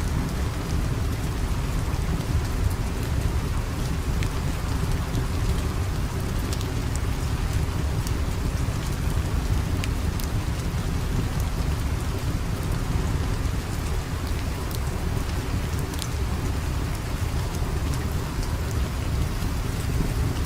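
Steady heavy rain with a deep low rumble underneath and scattered small sharp clicks.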